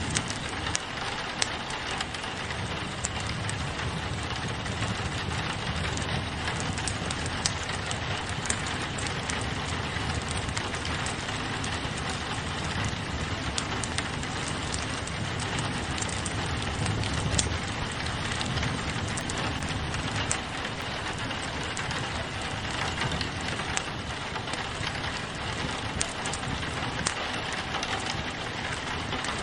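Steady rain pattering on a window, mixed with a wood fire crackling in a fireplace. Scattered sharp pops and ticks sound over an even hiss.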